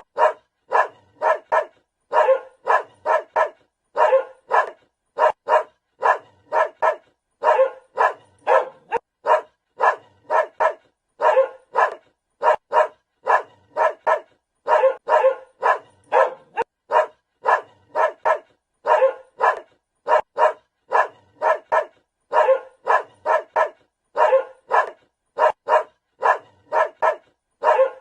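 A dog barking over and over in quick runs of three or four short barks, with brief pauses between runs.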